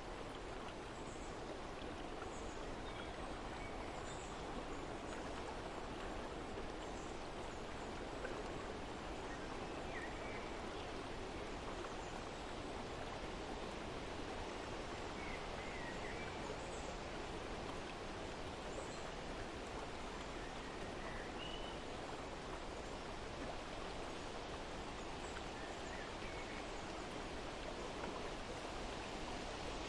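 Steady outdoor nature ambience: an even rush of flowing water, with faint short bird chirps scattered throughout.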